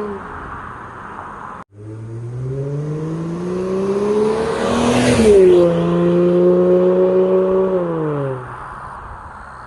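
Subaru Legacy 3.6's flat-six through a variable valve exhaust, accelerating past: the engine note rises to its loudest about five seconds in, drops sharply in pitch as the car goes by, then holds and fades away. There is a brief cut to silence under two seconds in.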